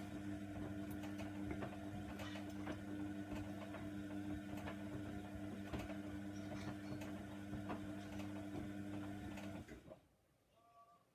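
Hoover Nextra washer dryer running with a steady electrical hum and a scatter of small clicks and ticks, which cuts off suddenly near the end.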